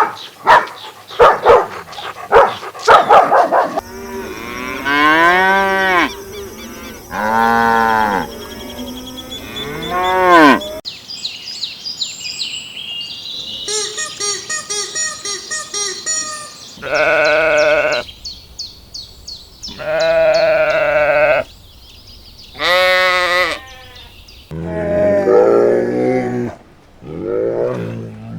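A run of farm animal calls cut together one after another, mostly sheep bleating. There are short sharp calls at the start, then repeated long bleats with rising and falling pitch, and lower calls near the end.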